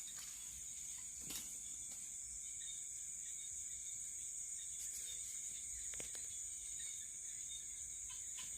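Steady, high-pitched chorus of night insects such as crickets, unbroken throughout, with a couple of brief faint clicks.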